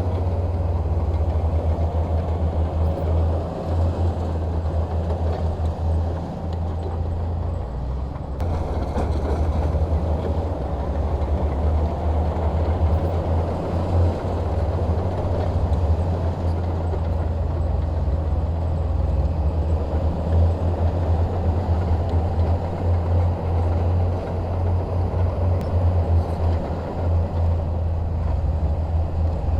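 Bulldozer's diesel engine running continuously with a heavy low rumble that swells and eases slightly as it works.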